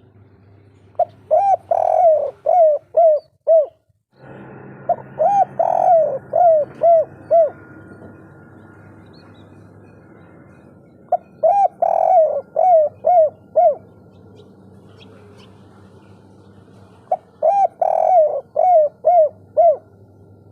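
Spotted dove (tekukur) cooing: four repeated phrases, each a quick run of six to eight rolling coos, in the song type bird keepers call 'kuk 3'.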